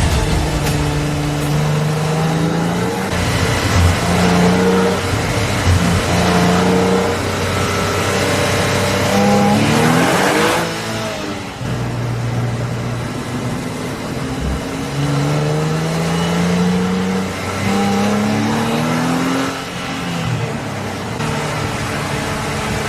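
Nissan Z NISMO's 3.0-litre twin-turbo V6 accelerating hard through the gears. The engine note climbs in pitch and drops back at each shift, several times over, with a louder rush of noise about ten seconds in.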